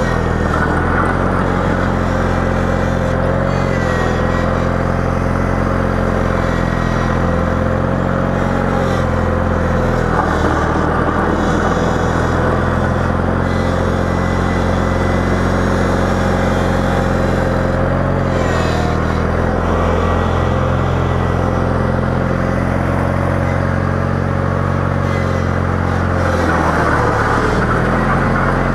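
Engine of a snow-plowing machine running steadily under working load, its pitch dipping slightly a few times.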